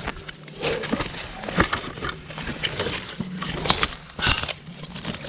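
Irregular crunching and scuffing footsteps on dry leaves and loose stones, with scattered sharp clicks, over a steady low hum.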